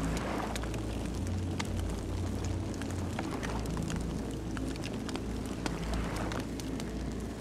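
Campfire burning: frequent sharp crackles and pops of burning wood over a steady low rumble of flames.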